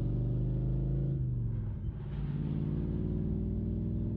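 A motor vehicle's engine running steadily. About a second in it eases off briefly, with a drop in pitch and level, then picks up again about two seconds in.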